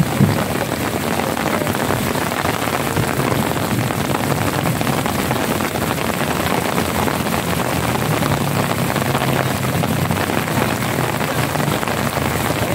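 Steady rain falling, an even, dense hiss that does not let up.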